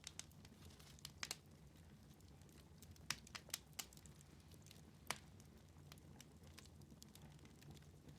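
Wood fire in a fireplace crackling: scattered sharp pops and snaps, a cluster a little after three seconds and a single loud one about five seconds in, over a faint low steady hum.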